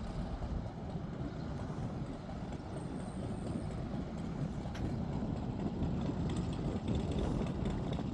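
Low, steady vehicle rumble that grows louder over the second half.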